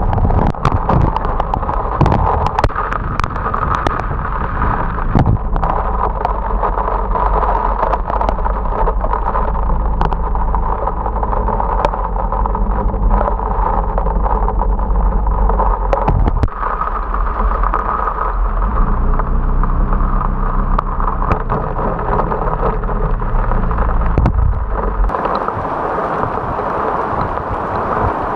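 Heavy rain and wind noise on the microphone of a camera riding on a motorcycle, over a steady engine hum, with many sharp taps throughout. The low rumble drops away near the end.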